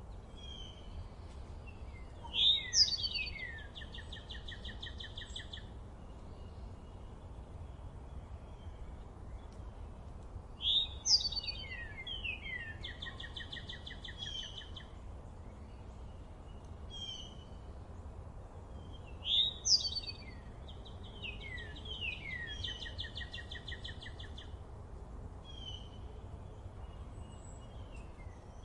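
A songbird repeating the same song about every eight seconds: a few loud sweeping whistled notes, then a fast even trill lasting about three seconds. Fainter short chirps come between the songs, over a steady low background rumble.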